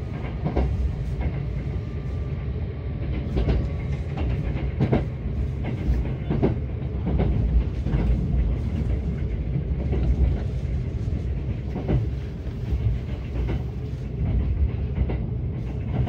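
Kintetsu 21000-series Urban Liner train heard from inside a car while running: a steady low rumble with irregular clicks as the wheels cross rail joints.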